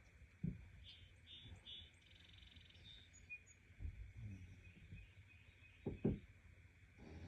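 Faint outdoor ambience with bird calls: three short buzzy high notes about a second in, then a brief trill, over a thin steady high hum. A few dull low thumps come and go.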